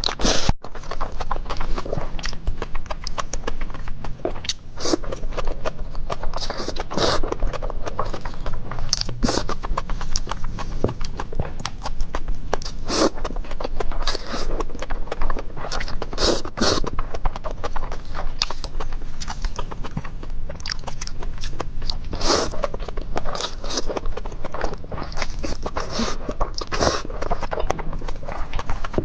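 Close-miked eating sounds: wet chewing and smacking of spicy fire noodles with runny egg, frequent irregular clicks with now and then a longer slurp.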